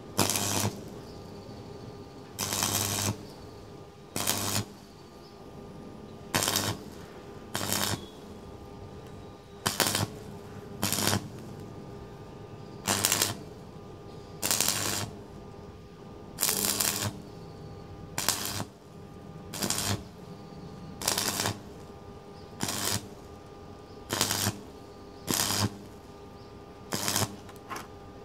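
Electric arc welding on a steel exhaust pipe, laid down as short stitch welds: about seventeen bursts of the arc, each under a second and one to two seconds apart, each carrying a low hum.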